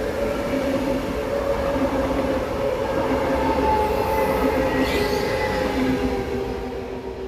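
A train passing on the rails: a steady low rumble with several held whining tones over it, easing off near the end.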